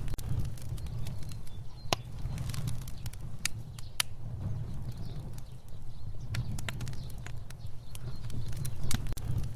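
Fire burning: a steady low rumble of flames with frequent sharp, irregular crackles and pops.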